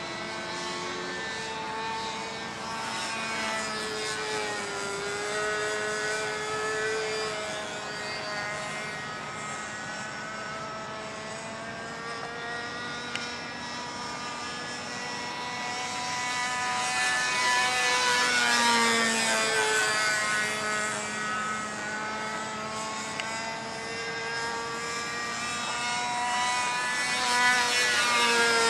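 Radio-controlled model airplane's motor and propeller whining as it flies circuits overhead. The pitch rises and falls as it comes and goes, and it is loudest as it passes close about two-thirds of the way through and again near the end.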